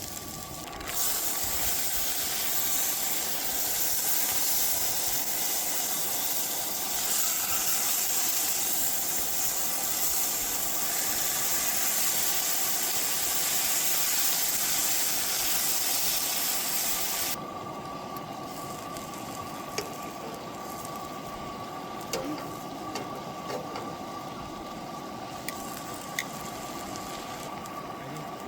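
Loud steady hissing from cooking on a camp stove. It starts suddenly about a second in and cuts off abruptly a little past halfway, leaving a faint steady whine and a few light clicks.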